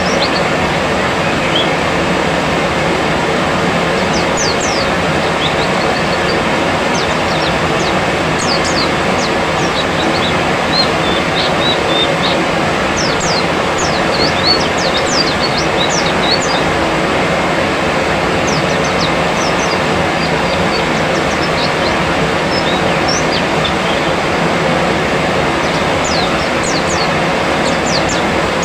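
A steady, loud rushing noise with many short, high chirps of small birds scattered over it, coming in busy runs. This is a therapy track played to coax a newly caught white-eye into singing.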